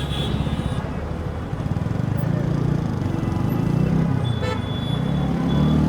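TVS Apache RTR 4V's single-cylinder exhaust note heard close to the pipe, rising and falling with the throttle as the bike rides, and climbing in pitch near the end as it accelerates.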